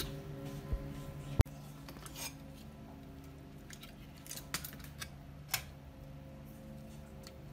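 Scattered sharp clicks and light taps, the loudest a single sharp click about a second and a half in, over a steady low hum.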